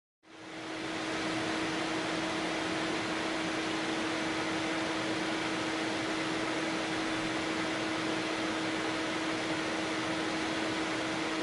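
Steady hiss with a constant low hum, fading in over about the first second and then holding unchanged.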